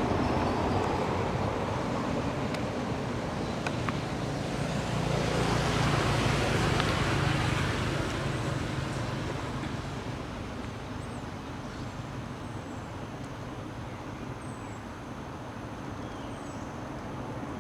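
Road traffic noise: a steady rumble with a vehicle passing and growing louder a few seconds in, then fading away.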